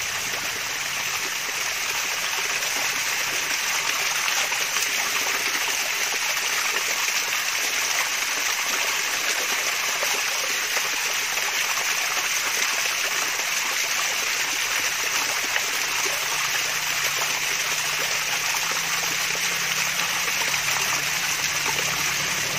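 Small waterfall of flowing water, a steady trickling, babbling splash with most of its sound in the upper range.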